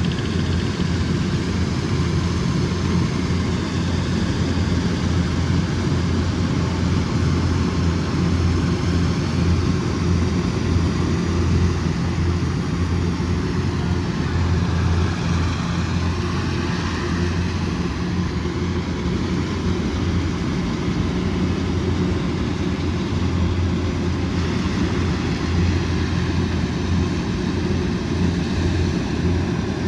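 Kubota combine harvester's diesel engine running steadily at working speed, a continuous low drone with no change in pitch.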